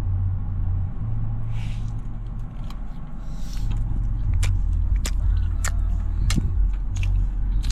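Steady low drone of road and engine noise inside a moving car, with a series of sharp crackles from about four seconds in.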